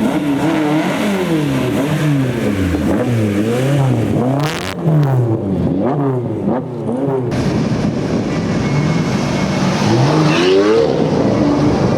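Supercar engine revved again and again in quick blips, its pitch rising and falling about once a second. The background changes abruptly partway through, and another rev follows near the end.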